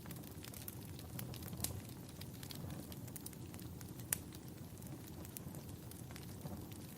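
Wood fire crackling in a fireplace: irregular small pops and snaps, with one sharper pop about four seconds in, over a steady low rushing.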